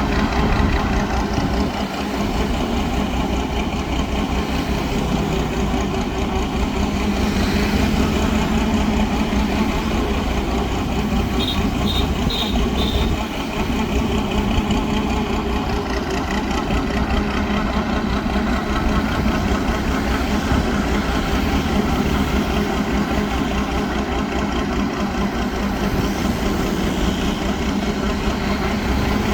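The engine of a homemade mud suction boat running steadily at a constant speed. Four short high-pitched chirps come in quick succession about twelve seconds in.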